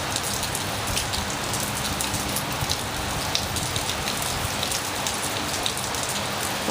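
Heavy rain falling steadily, with many sharp individual drop ticks pattering on hard surfaces over a constant hiss.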